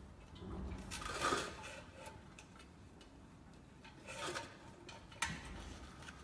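Scattered clicks and metallic clinks of tools and parts being handled, with two short clattering rustles and a sharp click about five seconds in.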